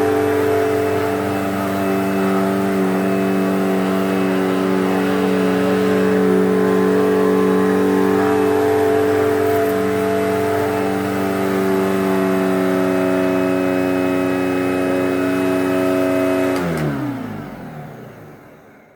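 Eureka Whirlwind Limited Plus bagless upright vacuum cleaner, with its 12 amp motor, running steadily. Near the end it is switched off and the motor winds down, its pitch falling away to silence.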